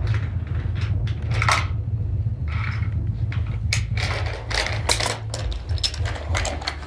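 Toy trains being pushed and handled on a wooden railway track: irregular clicks, knocks and rattles that come thicker in the second half, over a steady low hum.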